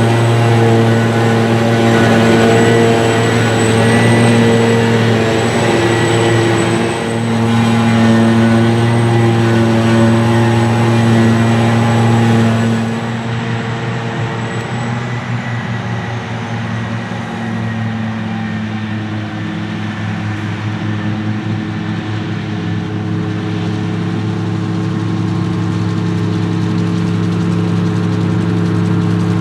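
Heavy diesel machinery of a silage harvest running steadily, with a thin high whine over the engine drone. About thirteen seconds in the sound drops in level and the whine fades out, leaving a steadier, lower engine drone.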